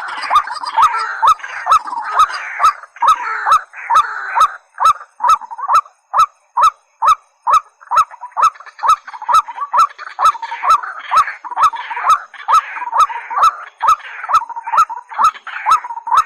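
White-breasted waterhen and watercock calling: a long, even run of short, hooked, honking notes, about two to three a second, without a break.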